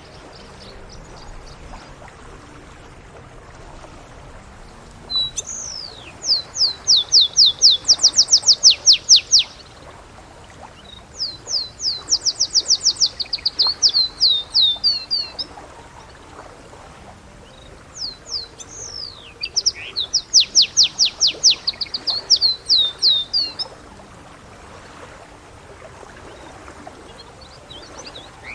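Male canary singing: three phrases of rapid repeated high notes and trills, each lasting a few seconds, with pauses between them.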